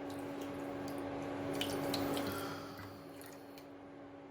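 Water poured into a pan of sugar, a steady pour that swells and then tails off about three seconds in, with a few light clicks. A low steady hum runs underneath.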